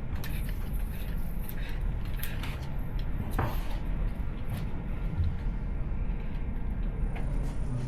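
Steady low room rumble with a few scattered light clicks and knocks, typical of slot cars being picked up and set into new lanes on the track.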